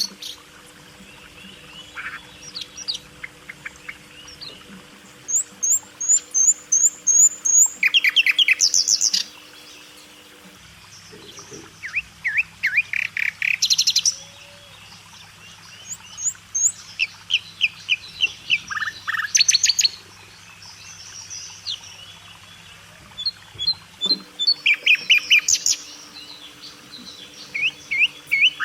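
Small pet parrots chirping in fast runs of sharp, repeated high chirps, with a new burst every few seconds.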